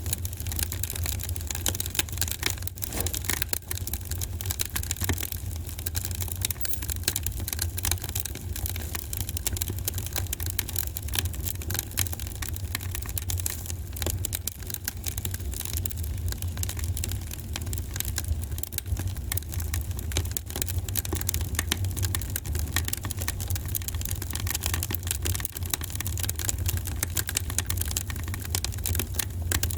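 Wood fire in a fireplace crackling steadily, with many small sharp pops and snaps over a steady low rumble.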